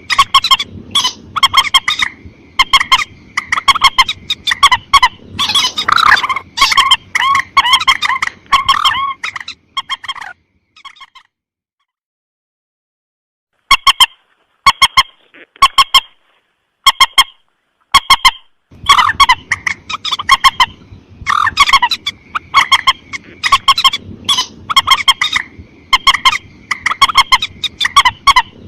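Bird-lure recording of mandar sawah calls: rapid, loud series of repeated call notes. The calling breaks off about ten seconds in, returns as a few scattered single notes, and turns dense again just before twenty seconds.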